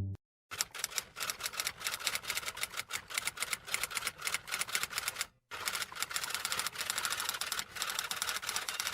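Rapid typing on keys: a dense, uneven run of sharp key clicks, with a brief pause about five seconds in.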